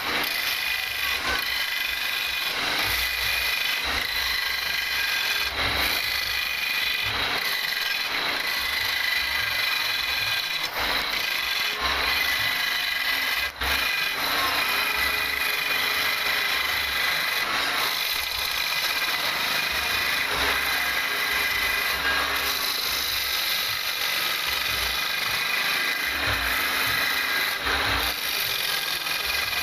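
Wood lathe running with a steady motor whine, a turning tool scraping and cutting the spinning wood. The sound briefly cuts out about 13 seconds in.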